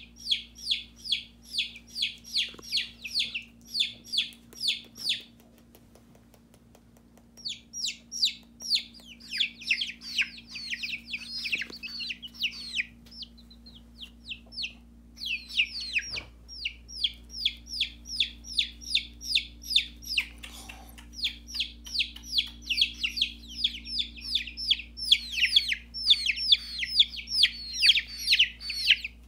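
Baby chicks peeping: rapid, high, short falling peeps, about four a second, that stop briefly near the start and then go on, several chicks at once.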